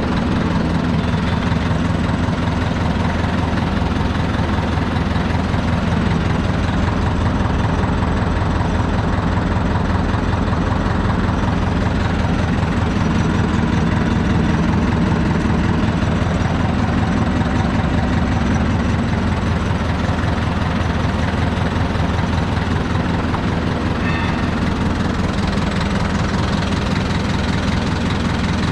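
Deutz F4L514/5 tractor's air-cooled four-cylinder diesel engine running steadily at an even speed.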